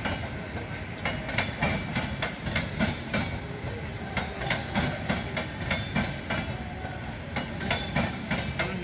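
Indian Railways LHB passenger coaches rolling past at moderate speed, a steady rumble broken by a run of sharp clickety-clacks as the wheels cross rail joints.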